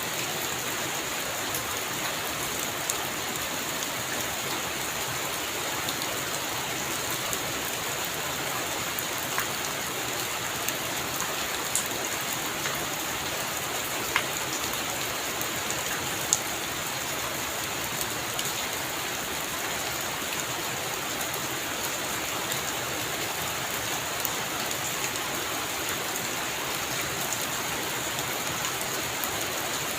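Heavy rain falling steadily on a roof, an even hiss with scattered sharp drop ticks.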